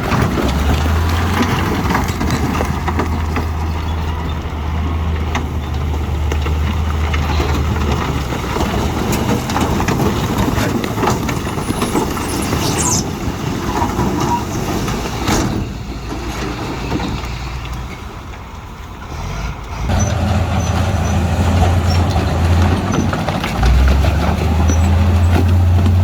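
Heavy diesel earthmoving machinery working: a steady low engine drone that eases off about seventeen seconds in and comes back stronger at about twenty. A few sharp knocks and a brief hiss sound over it near the middle.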